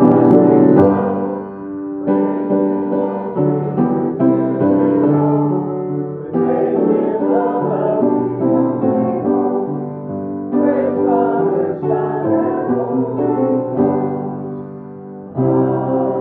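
Piano music: a slow piece in sustained chords, with the loudness dipping between phrases.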